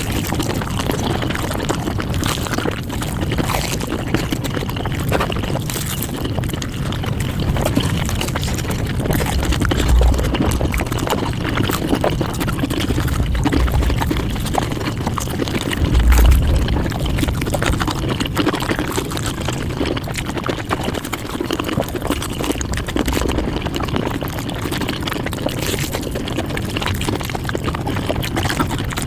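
Mukbang eating sounds sped up about fivefold: chewing, crunching and slurping run together into a dense, continuous clicking wash. A few low thumps stand out, the loudest about sixteen seconds in.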